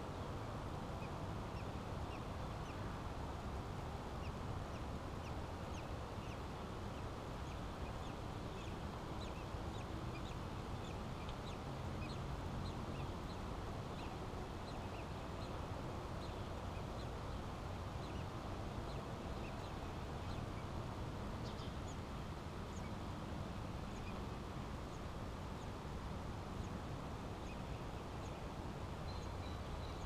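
Many faint, short, high bird chirps scattered throughout, over a steady low background noise.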